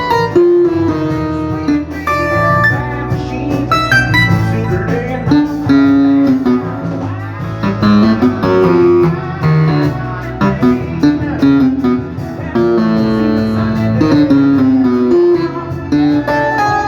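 Instrumental music played on an Ensoniq TS-12 keyboard with sampled electric piano and organ voices: a moving melody over a steady bass line.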